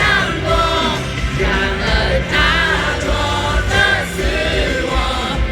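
Live concert music: a pop-rock band playing while voices sing with vibrato, sounding like a choir of many voices.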